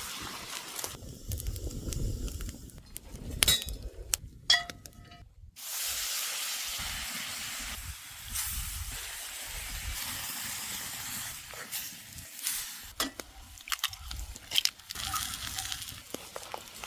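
Food sizzling in a skillet over a campfire, a steady hiss through the middle, with scattered clinks and knocks of utensils against the pan.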